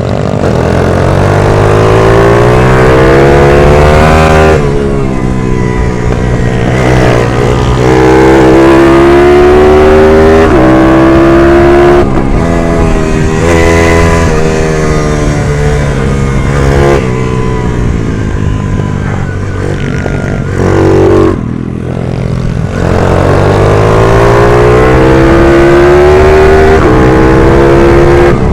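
A race minibike's 140 cc single-cylinder engine at racing speed: the revs climb hard under throttle, then drop sharply as the rider shifts or shuts off, several times over.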